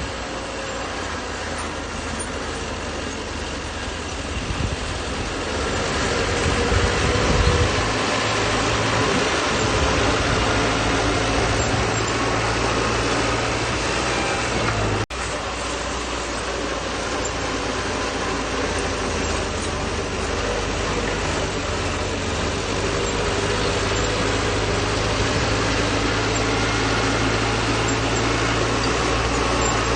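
Bulldozer's diesel engine running steadily while working, swelling louder about a quarter of the way in, with a sudden brief break about halfway through before it carries on.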